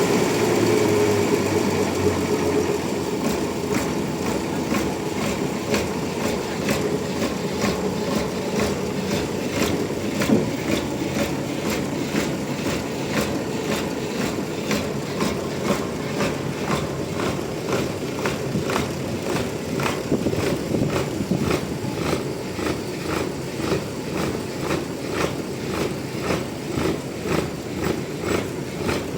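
Sawmill engine running steadily, with an even pulse of about two beats a second that becomes more distinct in the second half.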